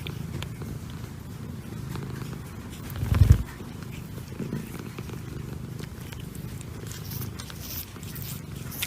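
A domestic cat purring steadily close to the microphone, with a brief low thump about three seconds in.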